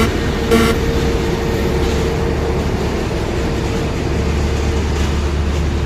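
Airbus A320's jet engines running at taxi power: a steady rumble with a low hum and a held whine. A stretch of electronic music cuts off in the first second.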